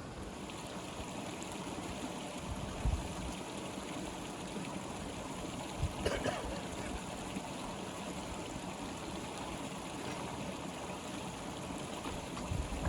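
Steady rush of flowing stream water, with one brief sound about six seconds in.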